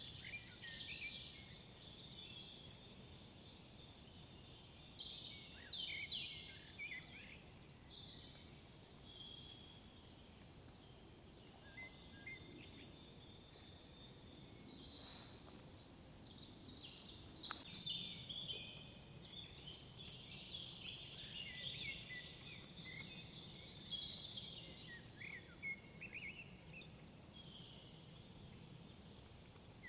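Several songbirds singing in woodland, with overlapping phrases and calls. One high, rattling trill comes back every several seconds.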